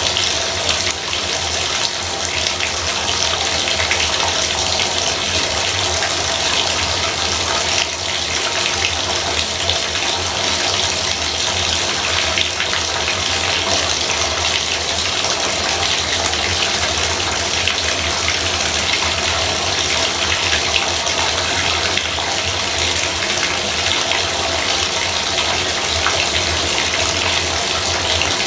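Bathtub faucet running steadily, water splashing into the tub.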